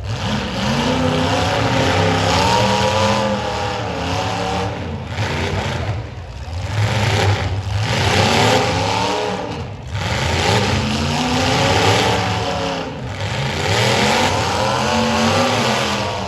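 Demolition derby cars' engines revving hard and easing off again and again, the pitch climbing and falling every few seconds over a steady background of engine noise.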